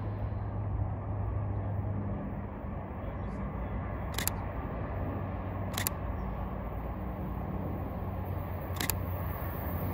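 Low steady hum of an approaching diesel locomotive under a steady wash of wind and ambient noise, with three sharp camera-shutter clicks about four, six and nine seconds in.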